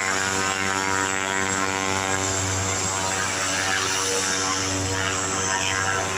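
Steady engine drone around an aircraft being towed, with a hum of many even, unchanging tones that holds level throughout.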